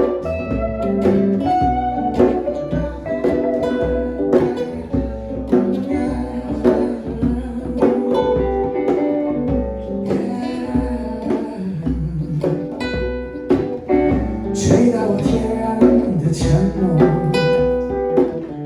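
Live improvised jam of acoustic and electric guitars over a steady low drum beat.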